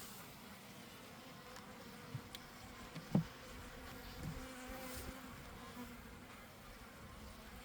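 Honeybees buzzing around an open hive, a faint steady hum. A single short knock a little over three seconds in.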